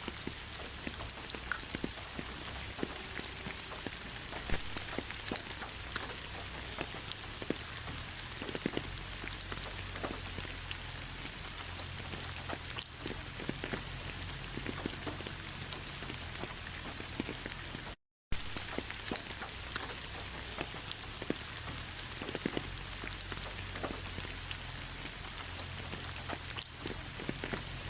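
Steady rain pattering on fallen autumn leaves, a continuous hiss dotted with many separate drop taps. The sound cuts out completely for a moment about two-thirds of the way through.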